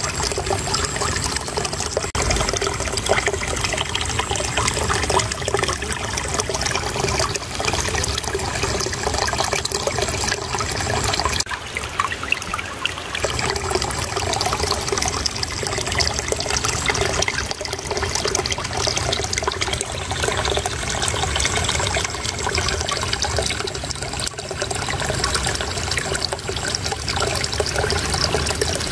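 Small stream of water flowing and babbling steadily, a continuous trickling splash.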